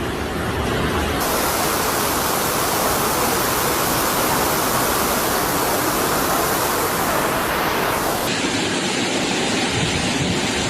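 Heavy rain, a loud, dense, steady hiss that changes character abruptly about a second in and again about eight seconds in.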